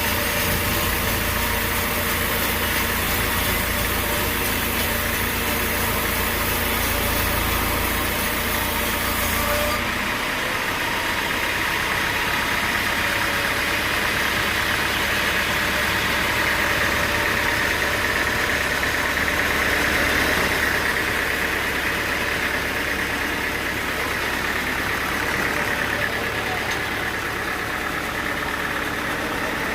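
Sawmill machinery running steadily, with an abrupt change in its sound about ten seconds in.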